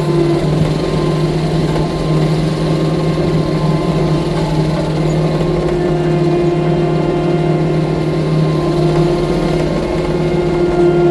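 Compact track loader (skid steer) engine running steadily, a constant drone with no change in speed.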